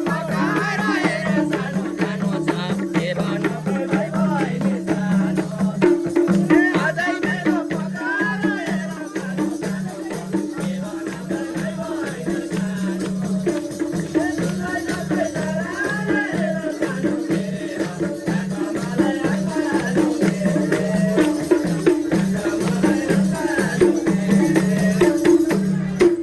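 Live Nepali dohori folk music: a low sustained chord played in a pulsing rhythm, with many quick percussive strokes and a wavering melody line above. It stops abruptly at the end.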